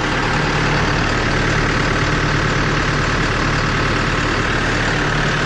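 Massey Ferguson 5400-series tractor's diesel engine idling steadily.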